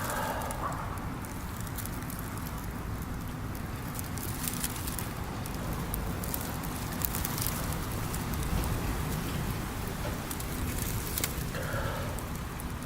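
Wood campfire burning, crackling with scattered sharp pops over a steady hiss.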